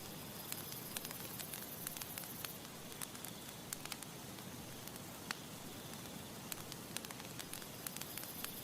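Campfire crackling: irregular sharp pops and snaps over a steady soft hiss of gentle breeze and burning wood.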